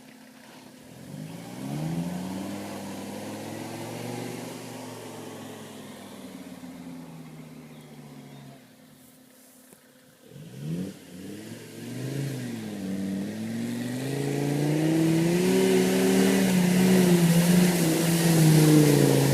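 Mercedes OM617 3.0 five-cylinder diesel in a UAZ off-roader, revving up and down repeatedly under load. About nine seconds in it falls almost silent, then revs again, rising and growing louder toward the end.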